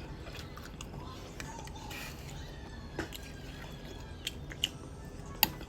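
Low room noise with a few scattered short clicks or taps, the loudest near the end.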